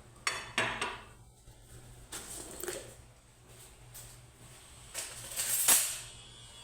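Dishes being washed by hand at a sink: three short bursts of clattering and splashing, the loudest near the end.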